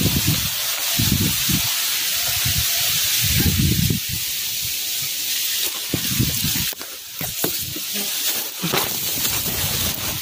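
Gusty wind buffeting the microphone in irregular low rumbles over a steady high hiss of wind-blown leaves, with a few sharp clicks and rustles past the middle.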